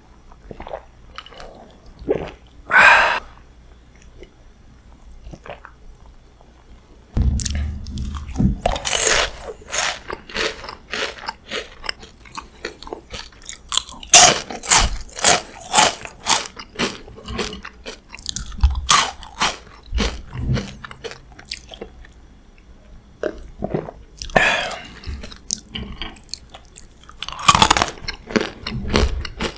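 Close-miked crunching and chewing of crunchy fried snacks, bite after bite of sharp crackling. The first seconds are mostly quiet apart from one short sound, and steady crunching starts about seven seconds in.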